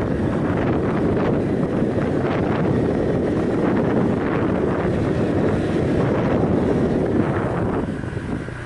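Wind buffeting the microphone on a moving motorbike, a steady rush with the bike's engine and road noise underneath, easing slightly near the end.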